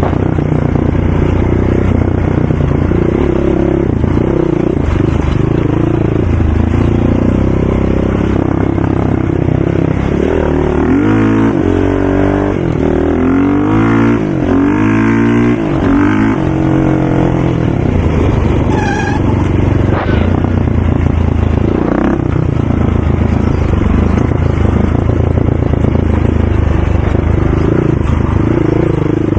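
ATV engines running, with several revving and easing off about a third of the way in, their pitches rising and falling across each other, then settling back to a steady drone.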